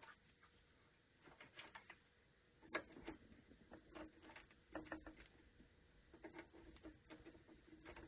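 Faint, irregular crackling and popping from a loudspeaker driven by a Sansui AU-9900 stereo amplifier: fault noise in one channel of the amplifier under repair.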